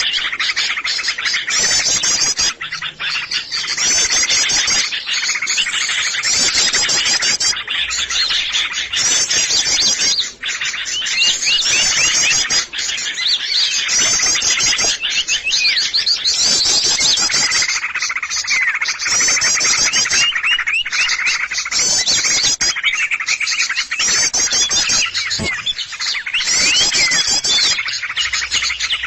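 A dense, noisy chorus of many small songbirds chirping and twittering in rapid overlapping series, the loud mixed calls of a bird-lure recording made to draw in small wild birds.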